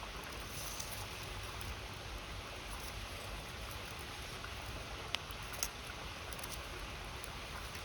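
Campfire crackling with a few small ticks over the steady rush of a river, with two sharp pops about five seconds in.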